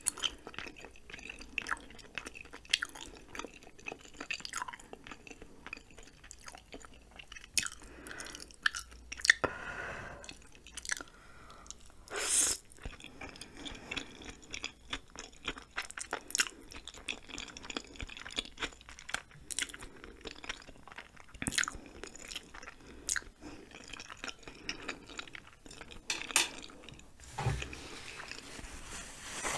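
Close-miked chewing of chewy ramen noodles and rice cakes: a steady run of wet mouth clicks and smacks, with a few louder smacks and a low thump near the end.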